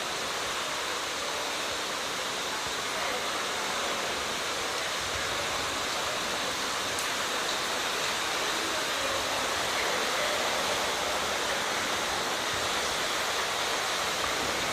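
Floodwater pouring and rushing in a steady, unbroken wash of water noise.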